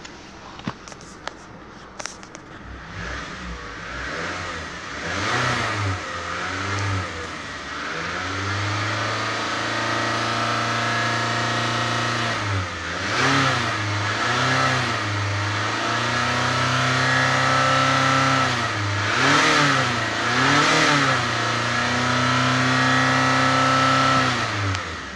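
2010 Suzuki Grand Vitara's 2.4-litre four-cylinder petrol engine being revved in Park. It is held at about 3,000–4,000 rpm for several seconds at a time, with quick blips of the throttle in between, and falls back to idle just before the end. A few light clicks come at the start.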